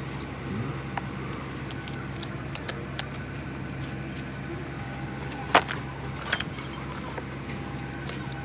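Light metal clicks and clinks of tools and parts being handled, scattered irregularly, with one sharper click about five and a half seconds in, over a steady low hum.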